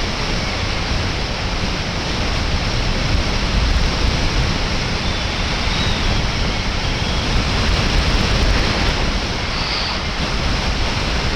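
Steady wind noise buffeting the microphone on a moving motorcycle, with no engine note standing out above it.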